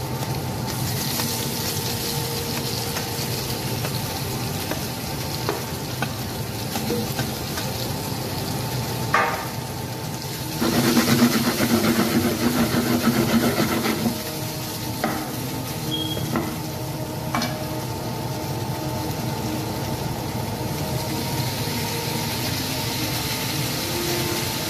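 Boiled potato cubes frying in hot oil with cumin in a pan, a steady sizzle as they are stirred with a spatula. Near the middle comes a louder stretch of stirring and scraping, then a few sharp knocks of the spatula on the pan.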